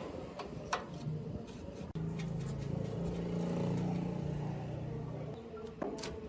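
A motor runs with a steady low hum for about three and a half seconds, starting about two seconds in, between scattered sharp clicks and knocks of metal work.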